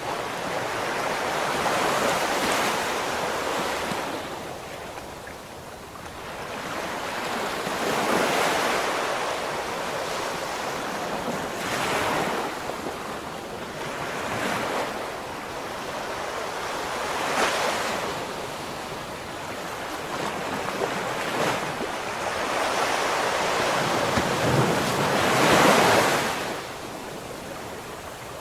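Ocean waves breaking and washing ashore, the surf swelling and fading in repeated surges every few seconds, with the biggest one near the end.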